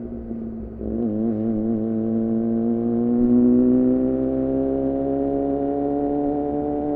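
2014 Yamaha R6 inline-four sportbike engine under way, heard through an aftermarket R9 titanium muffler and Leovince header. It runs low off the throttle for the first second, then picks up with a brief wavering as the throttle opens. After that the engine note climbs slowly and steadily as the bike accelerates in one gear.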